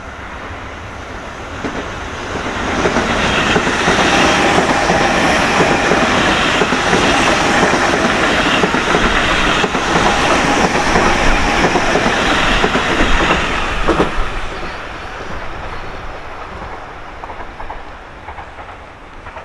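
A train passing, building up over a couple of seconds, loud for about ten seconds with wheel clatter, then fading away.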